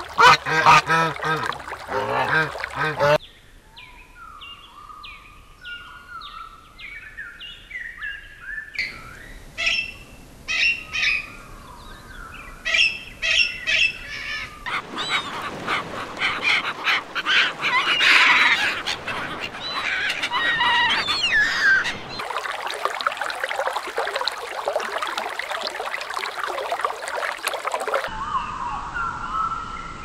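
Birds calling in a string of edited segments that change abruptly every few seconds: loud, low calls at first, then runs of short falling chirps, a dense chorus of chirping, and whistled notes near the end.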